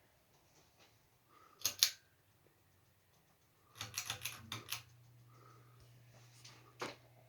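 Sharp clicks from the SMC U42 ceiling fan being worked by hand. About four seconds in, a low steady motor hum starts up with a further burst of clicks, as the fan's motor comes on.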